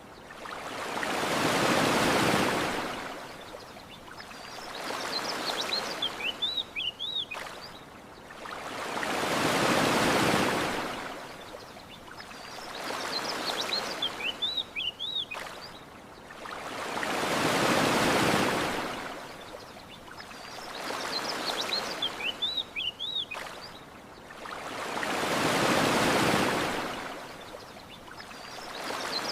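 Ocean waves washing onto a shore. Each large swell builds and falls away over several seconds, about every eight seconds, with a gentler swell between them. Short high bird chirps come back in the same place in each cycle, so the same few seconds of wave-and-bird audio repeat as a loop.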